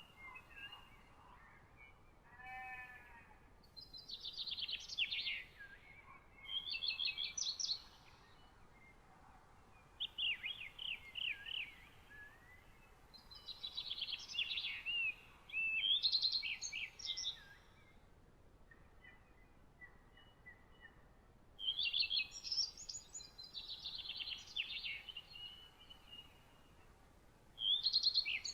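A songbird singing short, high-pitched phrases of rapid notes, each lasting a second or two and repeated every few seconds. A short, lower call comes in about two seconds in.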